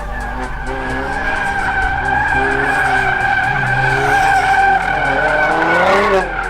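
Car tires squealing in a long, steady screech as a car spins donuts, with its engine revving underneath; the squeal cuts off about six seconds in.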